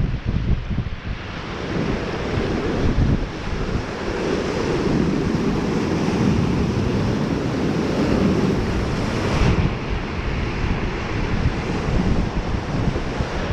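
Wind buffeting the microphone over a steady wash of surf on a lakeshore, the wash swelling for several seconds in the middle.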